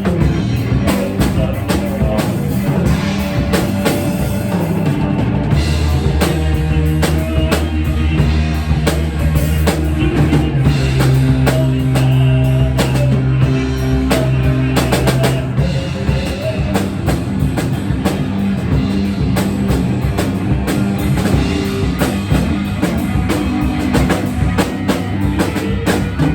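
A live rock band playing: a drum kit with steady bass-drum and cymbal hits under sustained bass notes and guitar.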